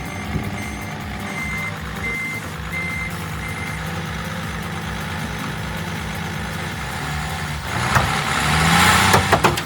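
Heavy vehicle's diesel engine running, with a reversing alarm beeping about six times, roughly every 0.7 s, over the first few seconds. Near the end the engine grows louder and harsher for a couple of seconds.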